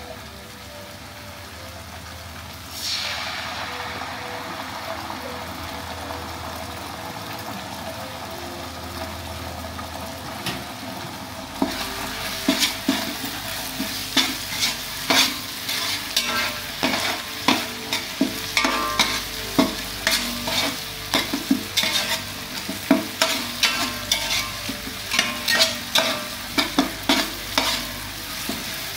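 Chopped onions and spices sizzling in hot oil in a large metal pot. The sizzle jumps louder about three seconds in. From about twelve seconds in, a metal spatula scrapes and knocks against the pot's base as it stirs, about twice a second.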